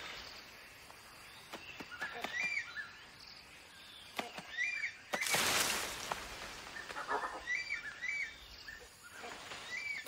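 Tropical forest ambience: a bird repeats the same short whistled call again and again, with a few sharp snaps and a brief loud burst of rustling noise about five seconds in.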